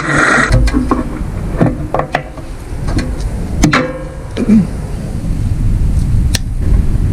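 Scattered knocks and clanks over a low rumble, the loudest about halfway through.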